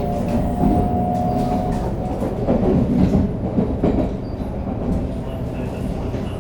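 Inside a 500 series Shinkansen car: the Toshiba GTO-VVVF inverter's steady whine, which stops about two seconds in, over the rumble of wheels on rail with irregular clattering.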